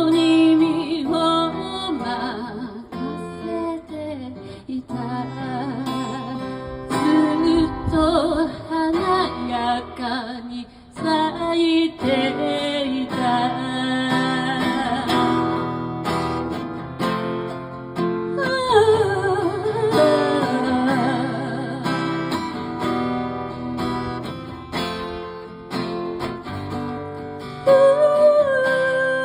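A song sung to acoustic guitar accompaniment, the melody bending over strummed and plucked chords, with a long held note near the end.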